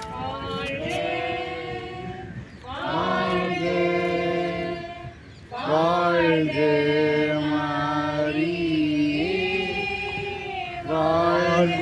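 A group of voices singing a slow devotional hymn in unison, with long held notes in phrases separated by brief breaths.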